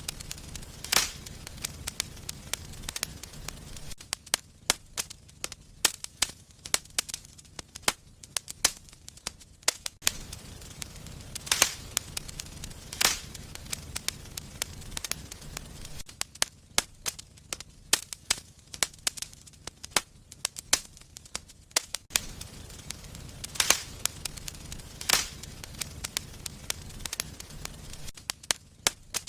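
Wood fire in a fireplace crackling, with irregular sharp pops several times a second, some much louder than others, over a soft low rumble of the flames that comes and goes every few seconds.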